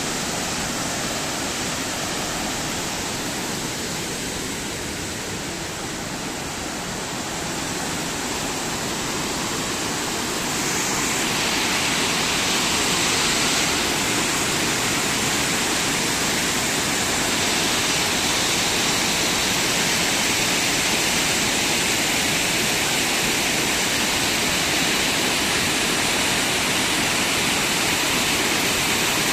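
Steady rushing of running water, getting a little louder about ten seconds in.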